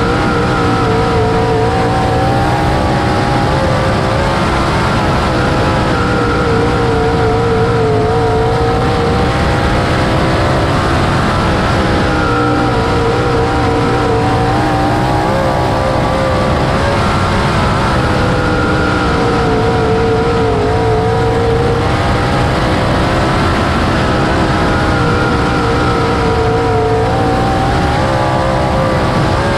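410 sprint car's V8 engine at full race pace, heard from on board the car, its pitch rising and falling over and over as the throttle comes on and off.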